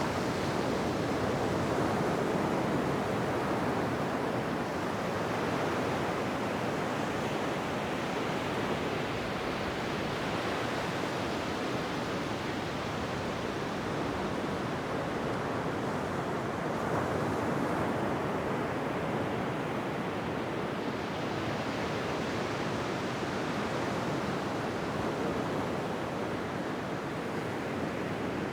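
Ocean waves breaking on a beach: a continuous wash of surf that swells and eases slowly every several seconds.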